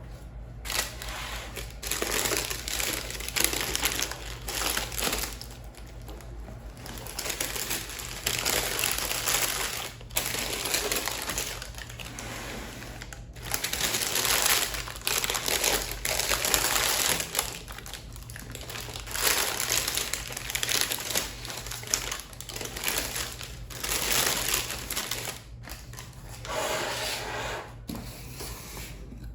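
Plastic cling film being pulled, stretched and crinkled over bread proofing baskets, in irregular bursts of rustling, over a steady low hum.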